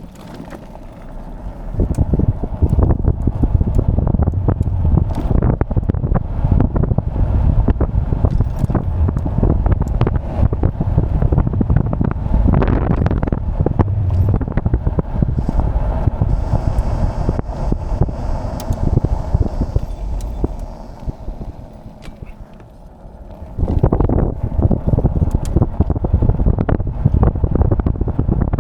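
Wind buffeting the microphone of a moving electric motorbike, a heavy low rumble with crackling. It picks up about two seconds in and eases for a couple of seconds about three-quarters through before returning.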